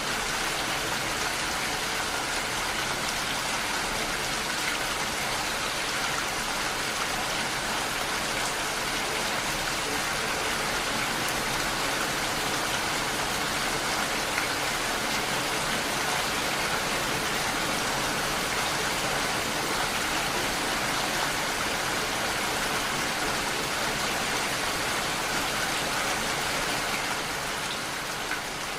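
Steady, even rain falling, a dense hiss of drops, easing slightly near the end.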